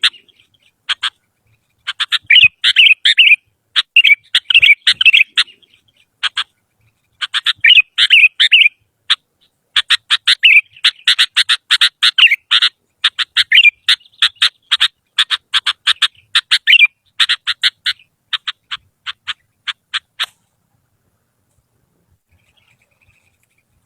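Sooty-headed bulbul (kutilang) singing: loud bursts of rapid, sharp chattering notes mixed with short bubbly, warbling phrases, coming in groups with short pauses. It stops about 20 seconds in.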